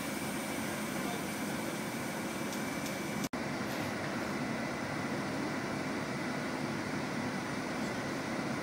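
Steady running hum of a diesel-hauled regional train at the platform, with a faint thin high whine over it. The sound cuts out for an instant about three seconds in.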